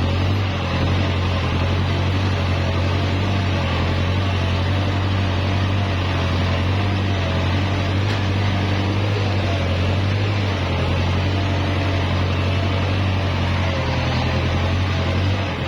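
Kubota L5018 tractor's diesel engine running steadily while plowing: a constant low drone with a faint, slightly wavering whine above it.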